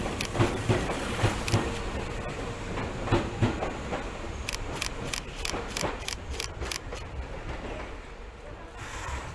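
Tokyu 8500 series electric train rolling slowly, its wheels clacking over rail joints in pairs of beats, then a quick run of sharp clicks, the sound growing fainter toward the end.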